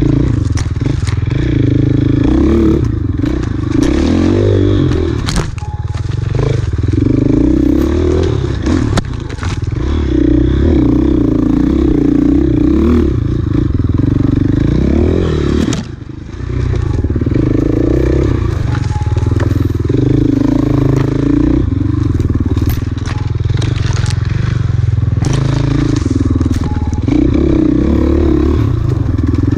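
Off-road enduro motorcycle engine ridden hard on a trail, the revs rising and falling repeatedly as the throttle is worked, with a brief drop-off about sixteen seconds in. Scattered clicks and clatter of rocks and debris strike the bike.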